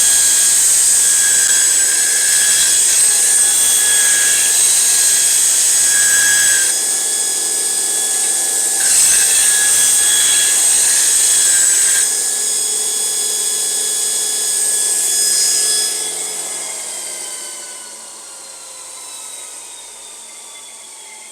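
Oregon Burr King 760 belt grinder running with a steady whine while a steel lawnmower blade is ground against the belt. About sixteen seconds in, the grinder is switched off and its whine falls in pitch as it winds down.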